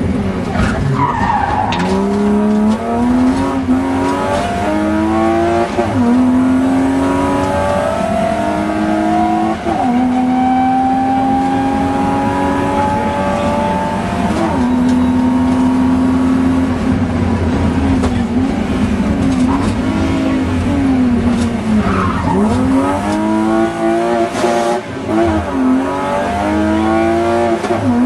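Rally car engine heard from inside the cockpit at full pace. It revs up and falls back at each gear change through a run of upshifts, holds a long rising pull, then dips and rises several times in quick succession about two-thirds of the way through before climbing through the gears again.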